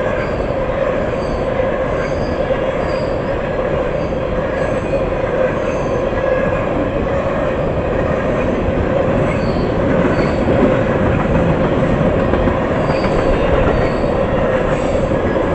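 Empty tank cars of a freight train rolling past, a steady rumble of steel wheels on rail with a sustained squeal from the wheels.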